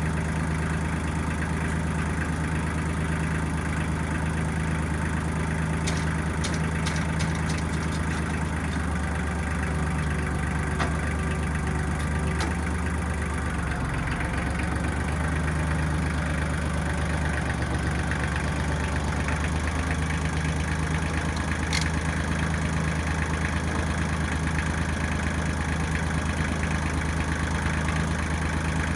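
Diesel engine of a 1995 Kubota backhoe running steadily, with a few light clicks about six to eight seconds in and one more near the end.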